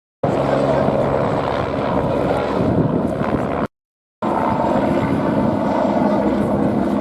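Piston-engined propeller aircraft flying a display, a steady engine drone over wind-like noise, broken by a brief total dropout about halfway.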